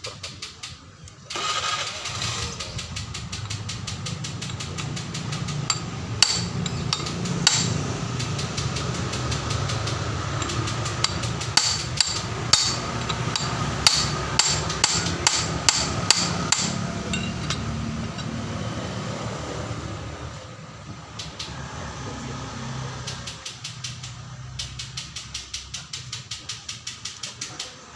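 Rapid metallic clicking and sharp metal knocks from tools worked on a Hino Ranger truck differential as the lock plate's 12 mm bolts are fastened, over a steady low hum. The loud knocks bunch up through the middle, and the clicking gets quieter and sparser near the end.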